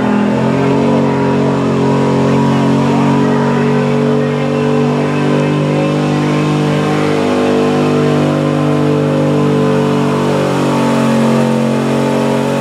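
A pickup truck's engine held at steady high revs under full throttle while pulling a sled, with a couple of brief dips in pitch.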